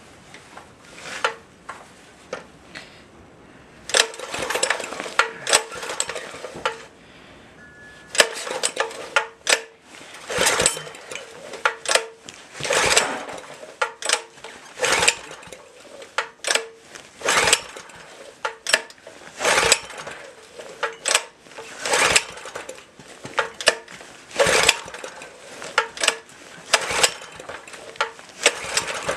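Baja mini bike's small single-cylinder engine being pull-started over and over: the recoil rope is yanked about every two to three seconds and the engine turns over with each pull but doesn't catch. It is being started cold on year-old gas.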